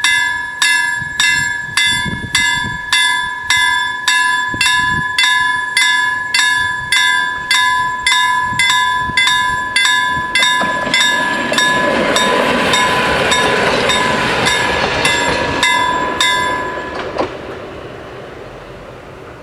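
Level-crossing warning bells ringing in rapid, even strokes, about two a second, while a train passes from about ten seconds in with a rush of wheel and rail noise. The bells stop near the end and the train noise fades.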